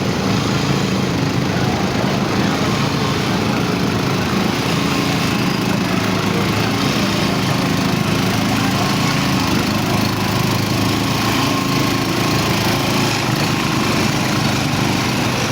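Truck engine running at a steady speed, a constant drone with no change in pitch or level.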